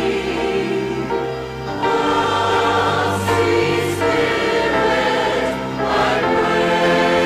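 Church choir singing a hymn with instrumental accompaniment, in long held chords that change about two seconds in and again about six seconds in.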